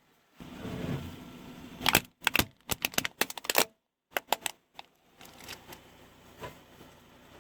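Brittle objects cracking and crunching under a car tyre: a rough rolling noise, then a rapid run of sharp cracks about two seconds in, fading to a few scattered crackles.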